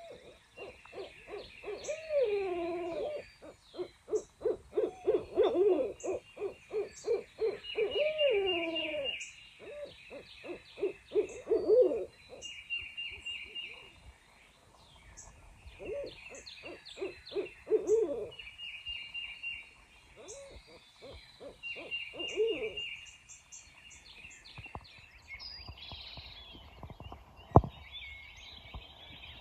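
Owls hooting in long, rapid rhythmic series, with swooping calls rising and falling in pitch, while songbirds sing higher above them. A single sharp click comes near the end.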